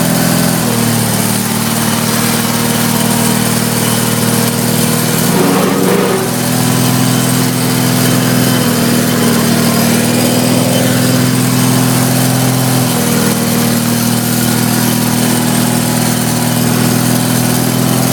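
Case 446 hydraulic-drive garden tractor's engine running loud and steady as the tractor is pulled out, its note shifting slightly a few times.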